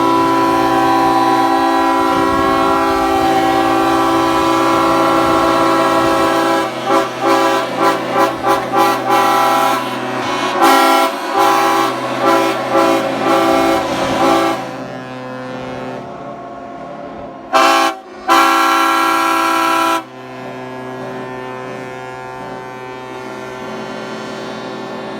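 Many superyachts' ship horns sounding together as a loud, overlapping chord of long blasts, breaking after about six seconds into a rapid run of short toots. Near the end one horn gives a short blast and a long one over fainter steady horns.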